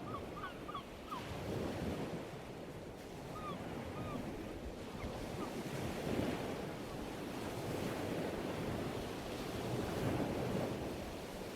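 Ocean waves washing ashore, swelling and easing, with a few short bird calls in the first second and again about four seconds in.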